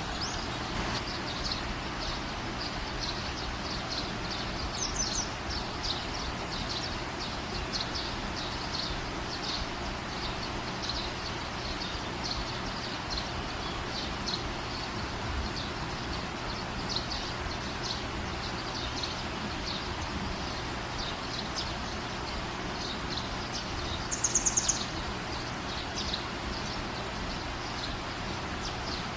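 Small birds chirping in short, repeated high calls over a steady background hiss, with a louder quick run of chirps late on.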